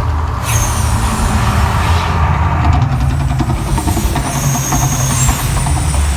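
Staged volcano eruption show: a loud, deep, steady rumble with a hiss over it.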